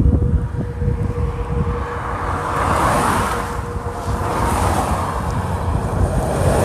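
Wind rumbling on the microphone while vehicles pass by, their tyre noise swelling and fading twice. Under this is the faint steady tone of a distant tornado warning siren, which fades out about five seconds in.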